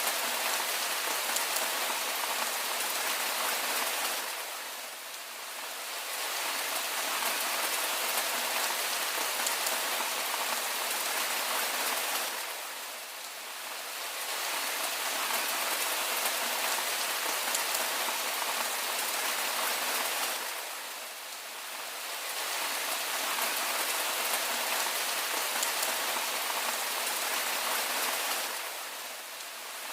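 Steady rain falling, an even hiss of many drops. It eases briefly about every eight seconds, then comes back to the same level.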